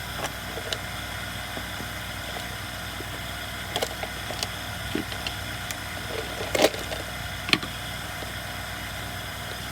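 Scattered light clicks and taps of small chainsaw fuel-system parts being handled during the fitting of a new fuel filter, the sharpest about six and a half seconds in, over a steady background hum.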